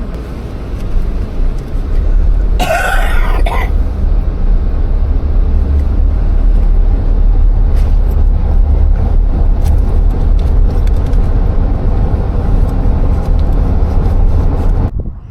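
Jeep driving, heard as a steady low road rumble with scattered light clicks and rattles. A short throat-clearing sound comes about three seconds in.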